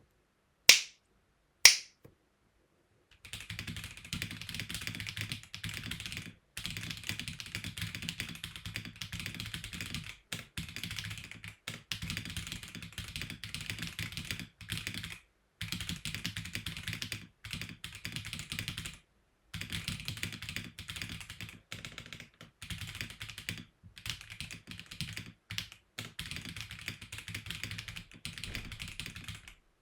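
Two sharp clicks about a second apart, then steady typing on an Akko 5075B Plus mechanical keyboard: a dense clatter of key strokes broken by short pauses.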